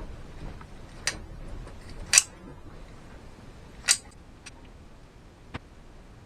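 A handful of sharp, irregular clicks and knocks from hands working with tools and materials, the loudest about two and four seconds in, over a faint background.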